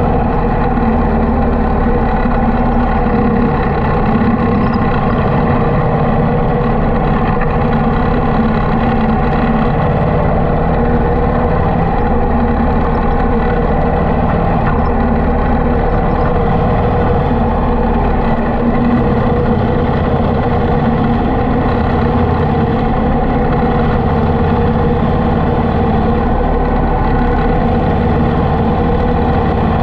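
Harley-Davidson V-twin motorcycle engine running steadily under way, its pitch holding level.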